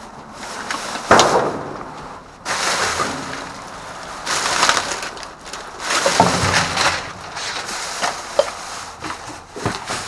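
Plastic trash bags and cardboard boxes rustling and crinkling as dumpster contents are rummaged through, in irregular bursts, with a sharp knock about a second in and another around six seconds in.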